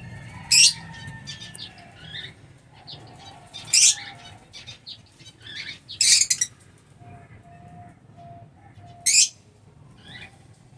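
Lovebirds giving short, shrill calls: four loud ones about three seconds apart, with quieter chirps in between.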